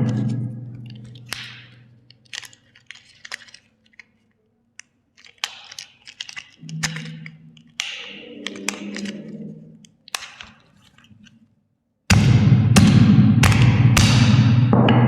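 Sharp plastic clicks and crackles from toys and their packaging being handled. About twelve seconds in, a loud low hum starts abruptly, with cracking over it.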